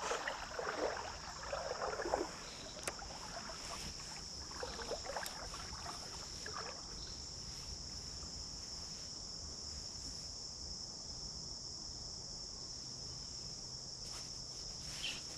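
Steady high-pitched insect chorus of crickets. Water sloshes and splashes irregularly over the first several seconds, then settles.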